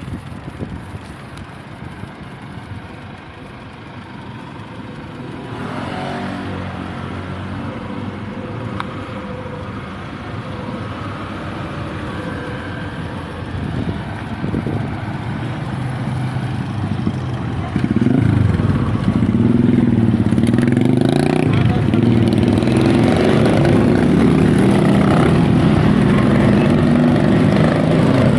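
Motor vehicle engine running nearby, growing louder, with a loud, steady low engine drone from about two-thirds of the way through.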